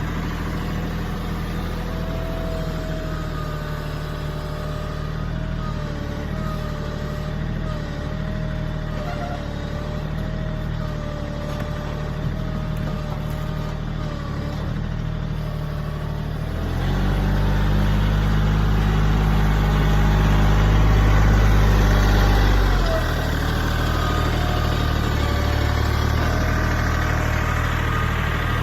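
Kioti CK3510se compact tractor's diesel engine running steadily while it works a log grapple; about seventeen seconds in it gets louder for around six seconds, then settles a little above its earlier level.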